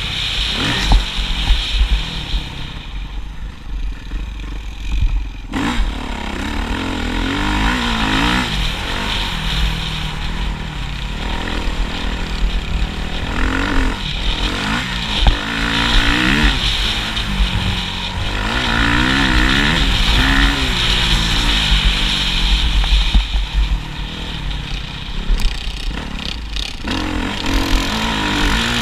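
Motocross bikes running on a track, engines revving up and falling back again and again as riders pass and shift, over a steady low rumble.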